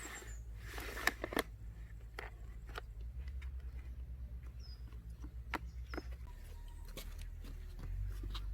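Scattered light clicks and taps, with two faint short bird chirps about halfway through.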